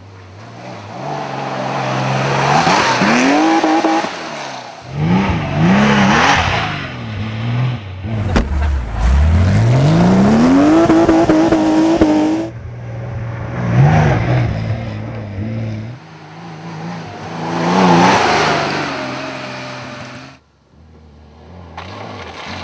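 Porsche 911 rally car's air-cooled flat-six engine revving hard as the car drives by on dirt and mud tracks. The engine note climbs with each gear, and about halfway through comes one long climb from very low to a high held note. The sound breaks off abruptly a couple of times where the shots change.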